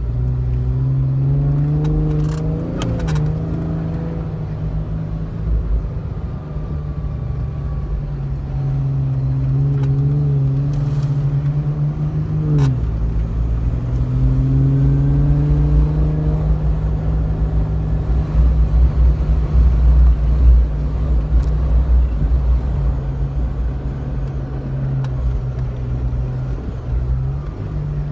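4x4 engine heard from inside the cabin while driving over soft sand dunes, its note rising and falling with the throttle over a low rumble. The note drops sharply twice, about halfway and near the end. There are a few light knocks along the way.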